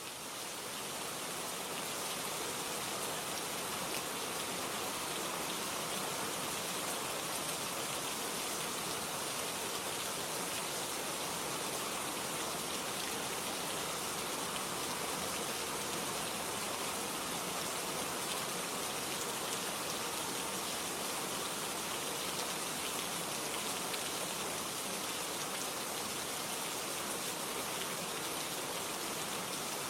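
Steady rain ambience: an even hiss of falling rain that fades in over the first couple of seconds and then holds constant.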